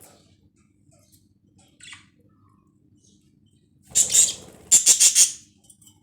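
Budgerigars calling: a burst of harsh, high-pitched squawks about four seconds in, followed by four quick loud pulses, after a mostly quiet stretch with one brief chirp about two seconds in.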